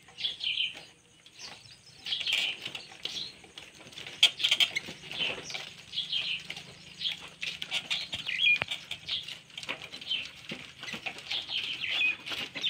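Birds chirping over and over, with scattered sharp clicks and knocks, the loudest about four seconds in.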